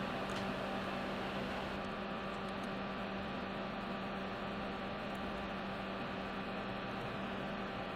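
Steady hum over a constant hiss, unchanging throughout.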